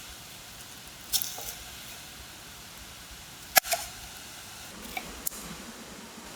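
A few sharp clicks and light clinks over a steady low hiss, the loudest about halfway through, followed by a couple of smaller ones.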